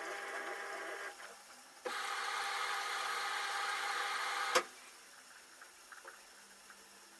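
LG F10A8HDS5 front-loading washing machine running its cotton wash cycle. A steady hissing mechanical noise stops about a second in, starts again about two seconds in, and ends with a sharp click at about four and a half seconds.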